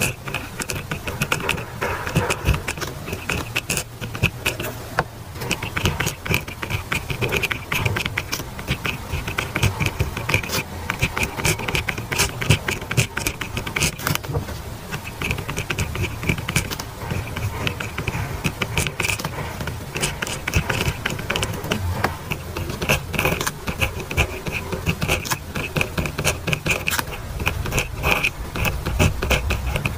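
Pen scratching across paper in quick, continuous handwriting strokes.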